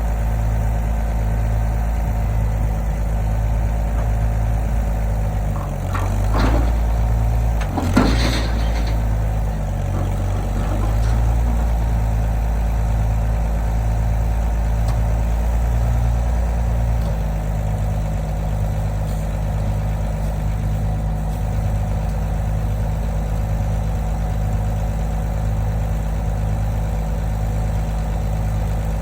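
An engine running steadily at idle, with an even pulsing beat. Two sharp metallic knocks come about six and eight seconds in, and the engine note shifts slightly lower about seventeen seconds in.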